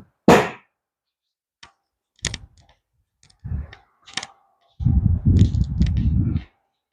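A few separate knocks and clanks, then a low rattling rumble lasting under two seconds near the end, from work on a car's front hub.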